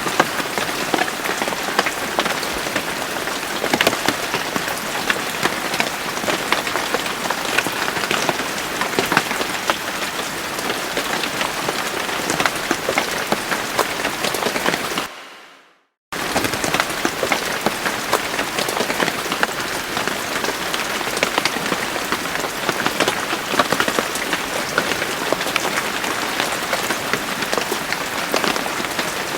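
Steady rain with many individual drops pattering. About halfway through it fades out to silence for about a second, then comes back suddenly at full strength.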